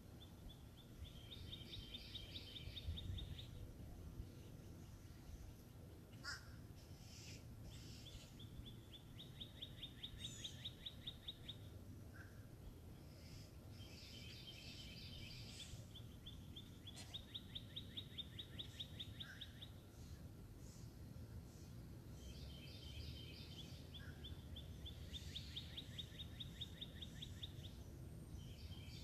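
A songbird singing a rapid, even trill of two to three seconds, repeated every few seconds, over a faint low rumble.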